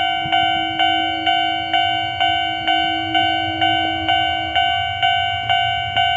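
Japanese railway level-crossing warning bell ringing, a steady clang repeated about twice a second.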